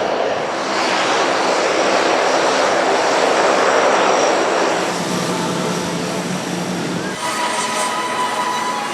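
Large firebombing air tanker's engines passing: a loud rushing engine noise that swells to a peak a few seconds in and then eases, giving way to a steady hum and, from about two-thirds of the way through, a higher steady whine.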